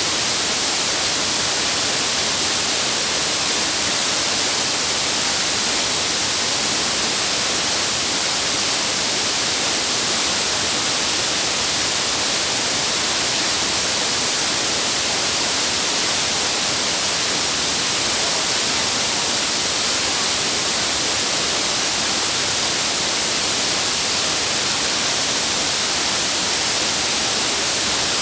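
Waterfall's water rushing steadily, a loud, even hiss with no let-up.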